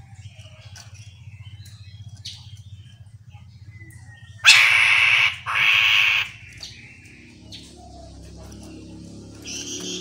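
Chestnut-capped laughingthrush giving two loud, harsh rasping calls in quick succession about halfway through, among fainter scattered chirps, over a low steady hum.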